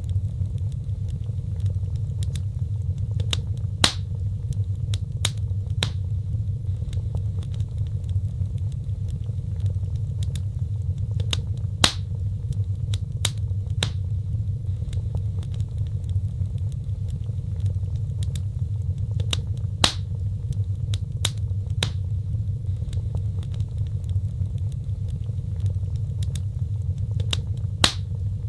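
Wood fire burning in a fireplace: a low, steady rumble of the flames with scattered sharp crackles and pops, a few louder pops standing out about every eight seconds.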